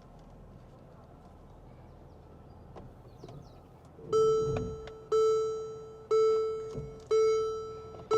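Car warning chime: the same bell-like tone sounds five times, about once a second, each note dying away, starting about halfway through.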